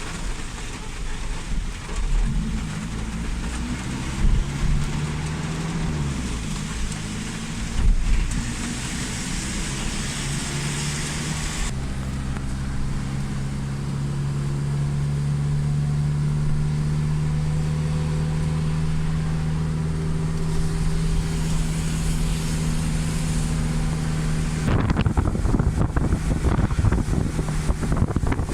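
A motor vehicle's engine running under a steady rush of heavy rain, its pitch rising and falling a few times in the first seconds and then holding steady. Near the end a rougher, crackling noise of rain or wind on the microphone takes over.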